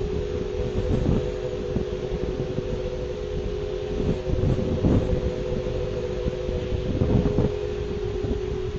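A steady droning hum of two close tones, the unexplained "strange sound", with gusts of wind buffeting the microphone.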